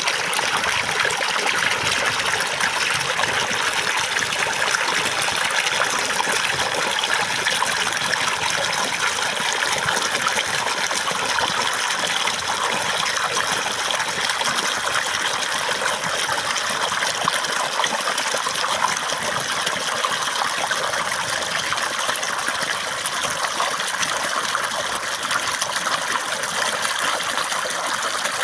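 Running water, a steady trickling and gushing flow like a small stream over stones, even and unbroken throughout.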